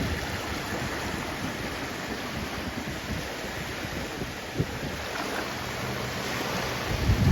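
Sea waves washing onto the shore in a steady rush, with wind buffeting the microphone; a louder low gust rumbles near the end.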